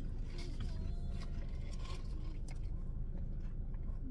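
Quiet eating sounds: a few small clicks and faint scrapes of food and packaging over a steady low hum.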